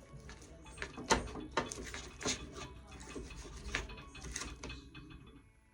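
Metal utensils clinking and scraping against a dish, in a few irregular sharp knocks with short scrapes between them.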